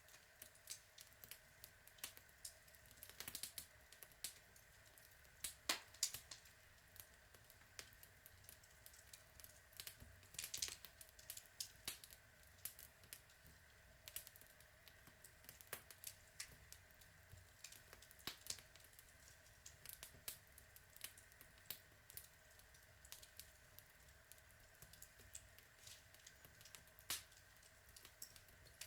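Log fire crackling: irregular sharp pops and snaps of burning wood over a faint steady hiss, with a few louder pops scattered through.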